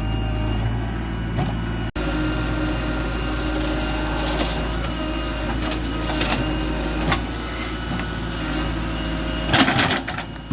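Heavy machine's diesel engine running steadily, broken by a brief dropout about two seconds in, with a louder noisy burst near the end.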